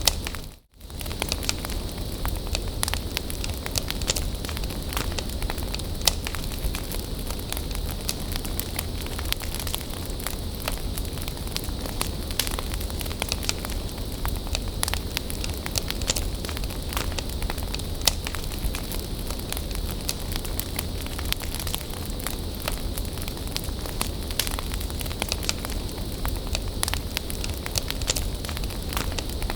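Wood bonfire burning with steady crackling and frequent sharp pops. The sound briefly cuts out to near silence about half a second in.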